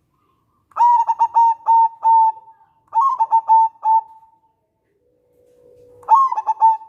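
Zebra dove (perkutut) cooing: three phrases, each a quick run of short notes ending in a longer held coo. A soft low hum leads into the third phrase near the end.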